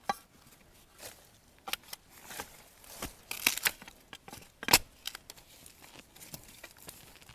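Rustling and crackling of dry leaves and twigs, with scattered snaps as a young bamboo shoot is worked loose and broken off by hand; one sharper crack a little under five seconds in.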